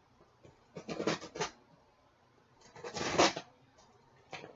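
Cardboard box being worked open by hand: two bursts of scraping and tearing of cardboard and packaging, the second, about three seconds in, the louder.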